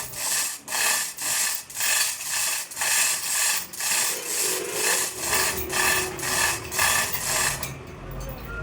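Hand hacksaw cutting metal with steady back-and-forth strokes, about two a second, stopping about a second before the end.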